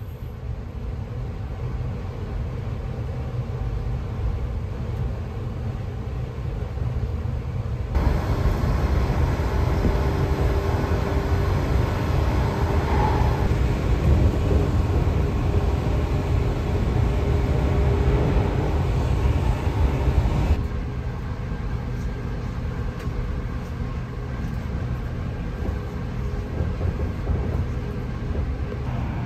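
Running noise of the West Express Ginga train heard from inside the carriage: a steady low rumble. It steps up sharply in level about eight seconds in and drops back just as sharply about two-thirds of the way through.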